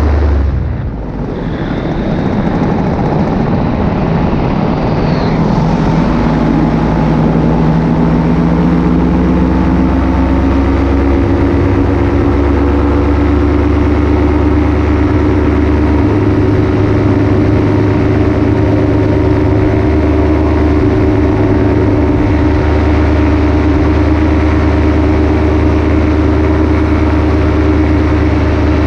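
Paramotor engine and propeller running in flight. About a second in, the throttle is briefly eased and the sound dips. The engine note then climbs back up over several seconds and holds steady.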